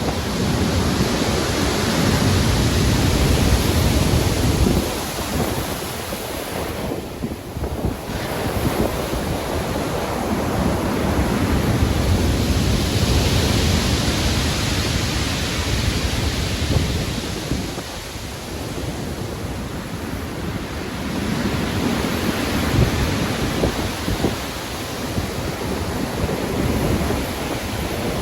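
Stormy sea: heavy ocean waves breaking and washing in, with wind, surging and easing in slow swells every several seconds.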